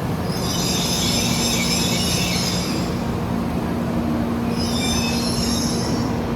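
Shinkansen train moving along the platform with high-pitched wheel squeal in two stretches, the second shorter, over a steady low hum.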